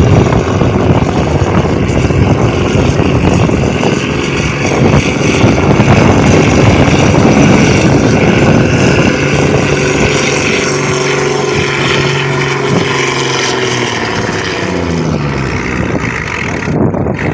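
Farm tractor engine running loud at high revs pulling the weight sled, then its pitch falls away over a few seconds near the end as the engine winds down.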